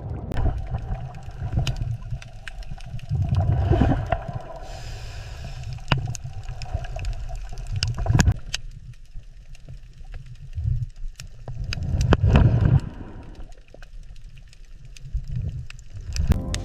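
Underwater water ambience: a low surging rumble of moving water with bubbling and scattered sharp clicks, swelling twice, about a third of the way in and again about three quarters of the way through.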